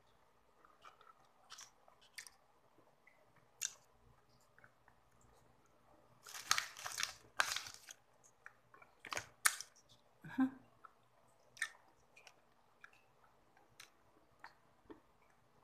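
Close-up mouth sounds of a person chewing chocolate: soft wet clicks throughout, with a cluster of louder crackly noises about halfway through.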